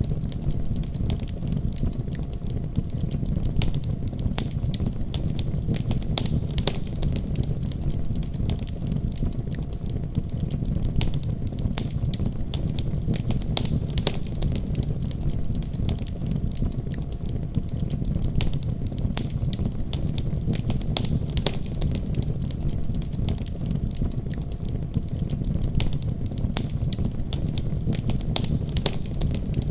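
Fire burning in a fireplace: frequent, irregular sharp crackles and pops over a steady low rumble of the flames.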